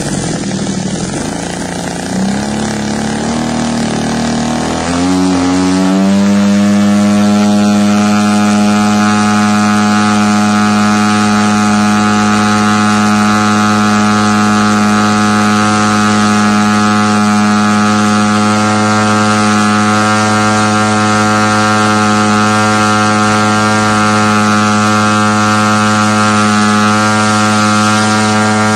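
RC model airplane's 3MM TOC engine, propeller fitted, being throttled up during carburettor needle tuning. Its pitch rises over the first five seconds, then it runs at a steady high speed for an RPM reading.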